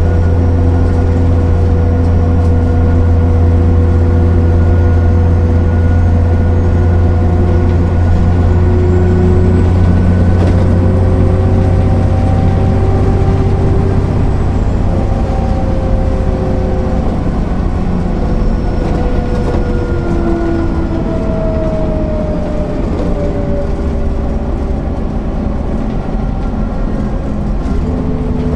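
MAN NL 262 city bus running, a steady deep drone with several whining tones that slowly drift in pitch, one rising and then falling about three quarters of the way through.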